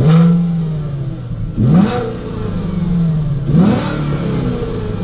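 VW Passat W8's 4.0-litre W8 engine, with a Guerrilla exhaust whose bypass valve is closed, blipped three times from idle. Each rev rises quickly and falls back to idle. It has a dark growl with a little sharp sound from the exhaust.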